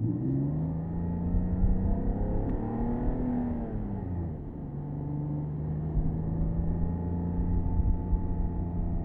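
Porsche Boxster S (987.2) flat-six engine heard from the open-top cabin, pulling up through the revs, easing off about four seconds in, then holding steady cruising revs, with road and wind rumble underneath.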